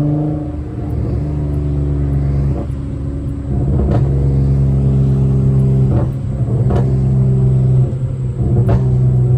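Straight-piped Honda Accord V6 exhaust droning at a steady cruise, with a few brief clicks along the way.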